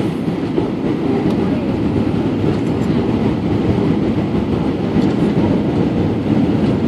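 Steady rumble of engine and airflow noise inside the cabin of an Airbus A320 on approach to land.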